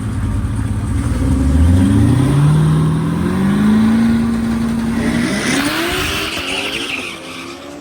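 Twin-turbo Hellcat V8 accelerating hard: the engine note climbs for a second or two, holds steady, then climbs again about five seconds in, with a hiss coming in on top during the second climb.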